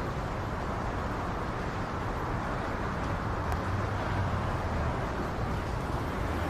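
Steady low rumble of a vehicle running, with road noise.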